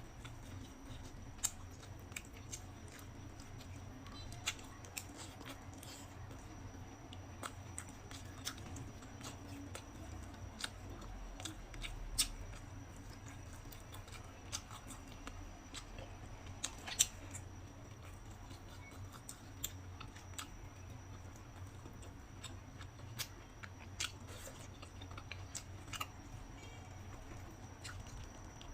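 A person eating close to the microphone: chewing with scattered sharp clicks and smacks at irregular intervals, a few of them louder, over a low steady hum.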